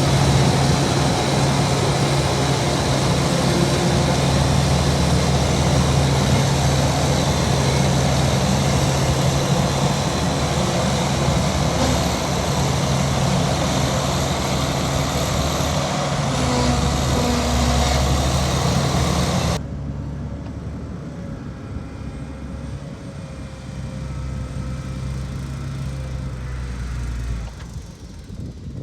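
Heavy diesel machinery engine running steadily under load, with a deep, even drone. About two-thirds of the way through, the sound drops suddenly to a quieter, duller engine hum.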